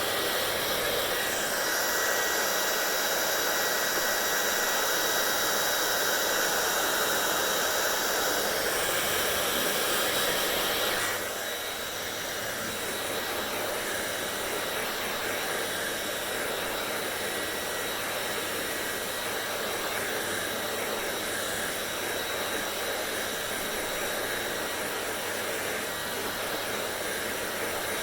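Hair dryer blowing steadily, a rushing noise with a faint steady whine. Its sound shifts about a second and a half in, and about eleven seconds in it gets a little quieter and changes character.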